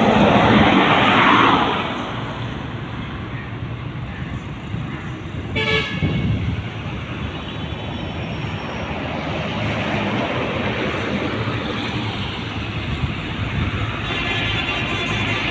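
Heavy highway traffic: a vehicle rushes past loudly in the first second and a half, and a short horn toot sounds about six seconds in, over steady road and tyre noise.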